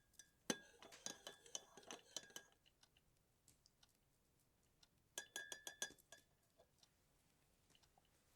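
Faint clinks of cutlery and dishes: a scatter of light clicks and knocks at first, then, about five seconds in, a quick run of ringing clinks lasting about a second, like metal tapping a cup.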